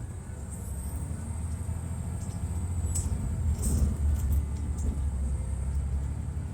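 2002 MCI D4000 coach's Detroit Diesel Series 60 engine running with a deep, steady rumble that grows slightly louder, with a couple of short clicks or rattles about halfway through.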